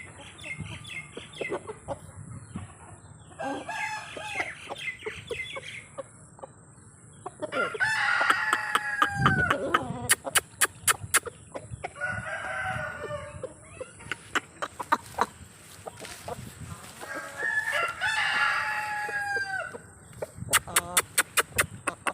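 O-Shamo rooster crowing twice, once about eight seconds in and again near eighteen seconds, each crow a long call that falls in pitch at its end, with clucking between. A quick run of sharp clicks follows each crow.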